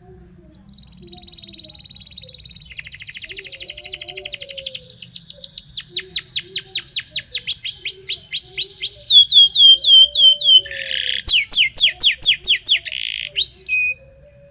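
Domestic canary singing one long, loud song phrase. It opens with a buzzy trill, then runs through tours of rapid repeated notes and quick down-slurred notes that grow louder. It stops suddenly near the end.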